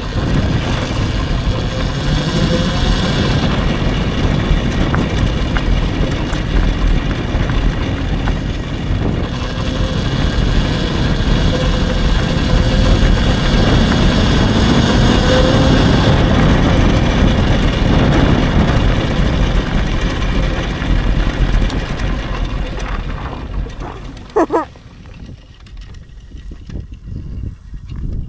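Electric dirt bike climbing a hill at full throttle: heavy wind and tyre noise with a faint steady motor whine. The noise drops away near the end as the bike slows, with a brief squeak just after.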